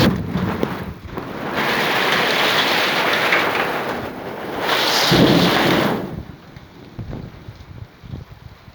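Heavy hail and rain pelting down in a storm with strong wind, a loud dense hiss that swells about five seconds in. About six seconds in it drops off sharply, leaving lighter rain with scattered knocks.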